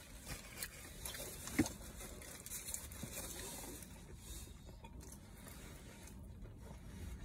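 Quiet chewing and small mouth noises of people eating a grilled cheese sandwich, with one sharper click about one and a half seconds in.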